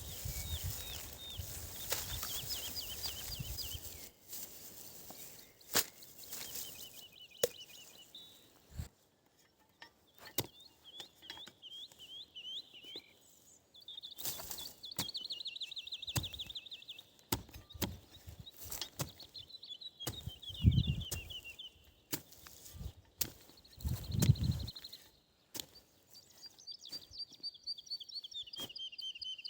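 A songbird singing repeated trilled phrases over and over, with scattered sharp knocks and clicks of something being handled or struck, and a few heavier thumps, the loudest about twenty seconds in.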